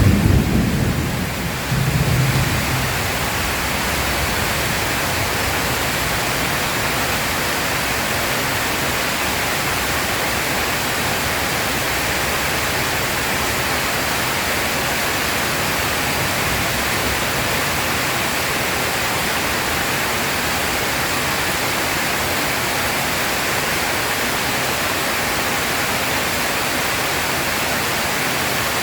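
Steady, dense rain hiss. In the first couple of seconds a thunder rumble dies away, with a second short low rumble about two seconds in.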